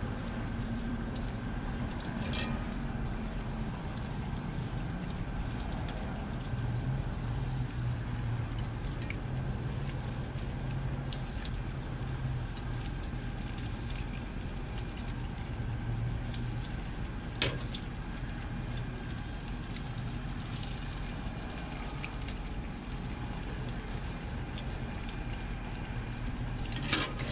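Pancake-battered cookies deep-frying in hot canola oil, a steady bubbling sizzle with a low hum beneath it. A sharp click cuts in twice, a couple of seconds in and again around the middle.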